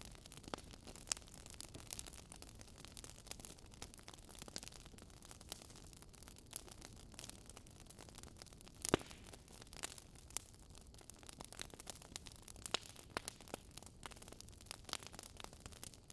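Wood fire crackling: irregular sharp pops and snaps over a soft hiss, the loudest pop about nine seconds in.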